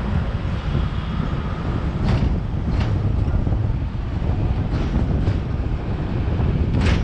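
Hong Kong double-decker electric tram running along its track, heard from on board: a steady low rumble with about five sharp clicks spread through it.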